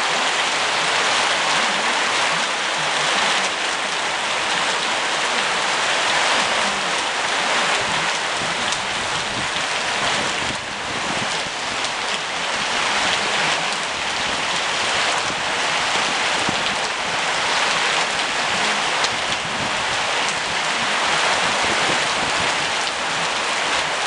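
Steady rain falling on surfaces, an even hiss of raindrops.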